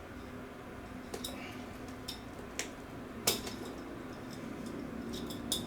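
Scattered light clicks and taps as a leather belt bag and its fittings are handled and refastened, the sharpest about three seconds in.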